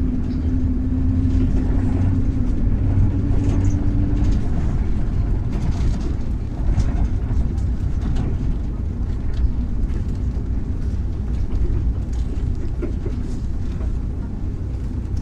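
MAZ-103 city bus driving, heard from inside the passenger cabin: a steady engine and road rumble. A humming tone runs through the first few seconds and then fades out.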